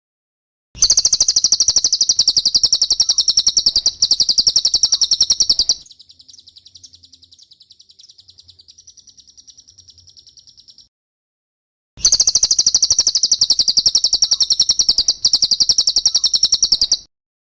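Cililin bird singing: a loud, rapid high-pitched trill of fast repeated notes lasting about five seconds, then a much softer trill, a brief pause, and a second loud trill.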